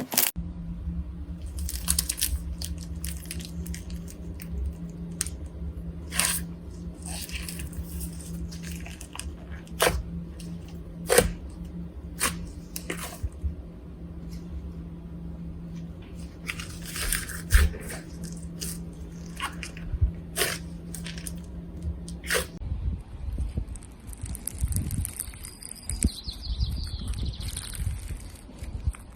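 Slime being squeezed and poked by hand: wet squishing with irregular sharp pops and crackles.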